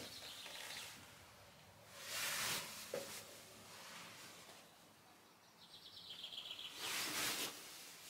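A small bird gives a short trill twice, once at the start and again near the end, over three swells of rustling noise in the woods.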